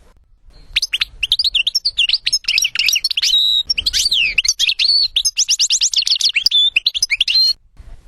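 European goldfinch singing one long, rapid twittering song of quick sweeping notes, with a fast trill of repeated notes near the end, starting about a second in and stopping shortly before the end.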